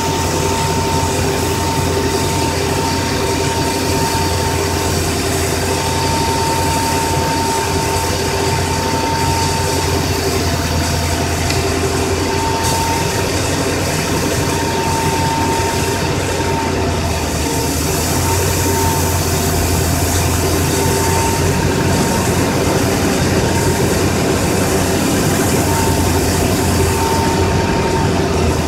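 A 2001 Mercury Mountaineer's 5.0 V8 idling steadily while it draws Seafoam through the brake booster vacuum line, with a steady thin high tone over the low engine hum.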